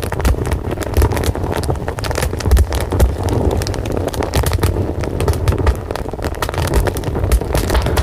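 Fire burning with a dense, irregular crackle of popping wood over a steady low rumble.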